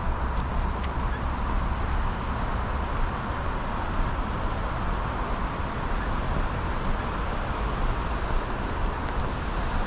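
Steady outdoor noise: a continuous hum of road traffic with wind rumbling on the microphone.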